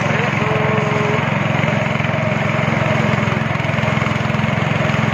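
Speedboat engine running steadily while the boat is under way, with an even hiss over it.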